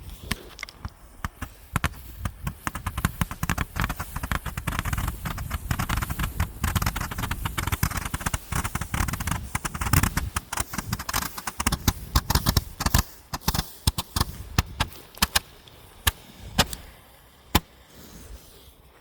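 Consumer firework cake going off: a dense run of rapid crackles and bangs that thins out to a few separate sharp bangs near the end.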